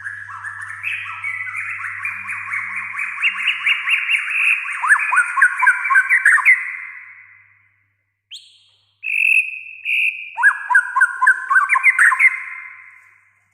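A white-rumped shama (murai batu) singing rapid, varied phrases of quick repeated notes. The song fades out after about seven seconds; after a short pause and a single brief note, a second burst of song with fast repeated notes fades out near the end.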